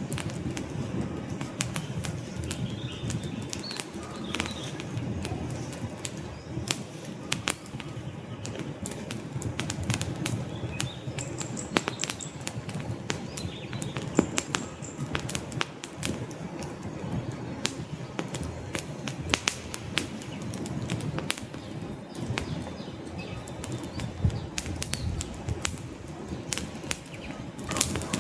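Wood fire burning in a fireplace: frequent irregular crackles and sharp pops from the burning logs over a steady low rush of flames.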